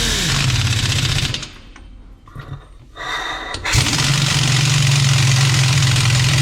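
Impact wrench hammering lug nuts tight on a truck wheel: a rattling burst that stops about a second in, a short one about three seconds in, then a long steady run.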